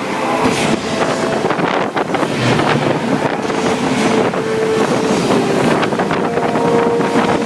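Staged hurricane effects: loud wind and rushing, splashing water, with a few held tones underneath.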